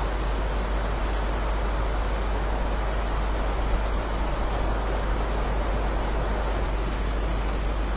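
Steady heavy rain, an even, unbroken hiss with a constant low rumble underneath.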